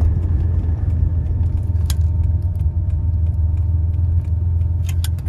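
1984 Porsche 911 Carrera's air-cooled 3.2-litre flat-six running steadily at about 1,000 rpm, a low rumble heard from inside the cabin, with a couple of light clicks.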